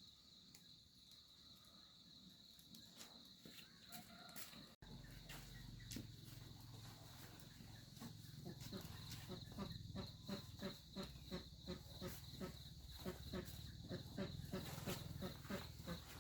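Crickets chirring in a steady high tone. About five seconds in, a low rumble and a run of regular soft knocks, a few a second, join it.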